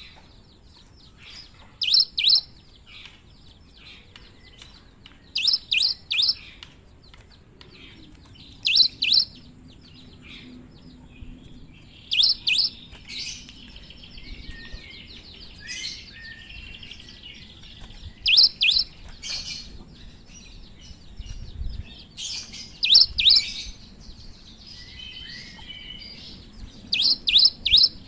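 Cinereous tit (gelatik batu) singing: loud bursts of two to four sharp, high notes every three or four seconds, over a steady run of soft, quick chips and some quieter warbling between the bursts.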